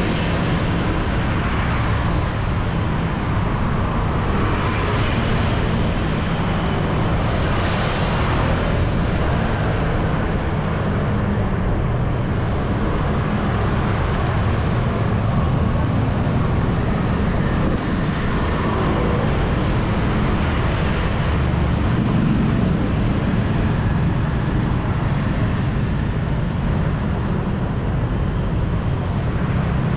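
Steady city street traffic noise heard from a moving bicycle, a continuous mix of vehicle engines and tyres with a strong low rumble.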